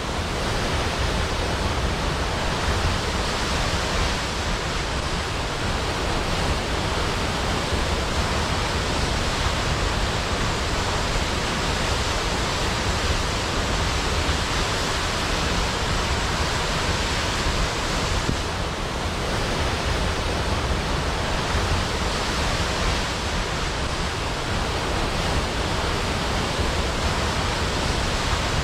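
Waterfall: a steady, unbroken rush of falling water with a deep low rumble under it.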